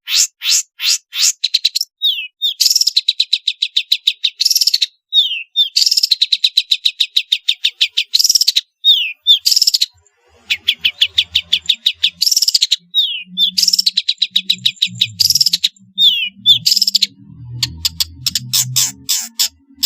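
Long-tailed shrike (pentet) singing a fast, varied song: rapid runs of sharp repeated notes broken by short downward-slurred whistles, with brief pauses between phrases.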